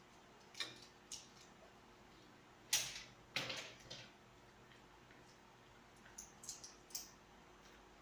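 Eating sounds at a meal: scattered short clicks and smacks, irregular, with a sharper pair about a third of the way in.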